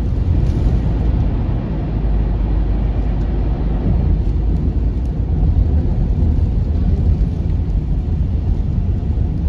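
Steady low rumble of a car driving on snowy road, engine and tyre noise heard from inside the cabin.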